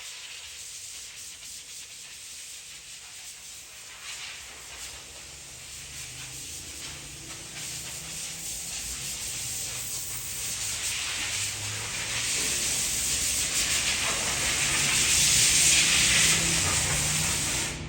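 Pressure washer spraying water, a steady hiss that grows louder over the stretch, with a low motor hum underneath. It cuts off suddenly at the end.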